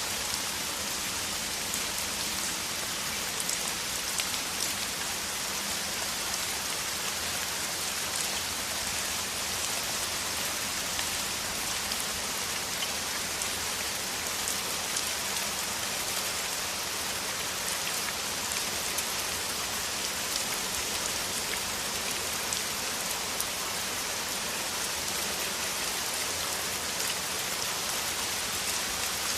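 Heavy rain falling steadily: an even hiss, with the patter of individual drops striking through it.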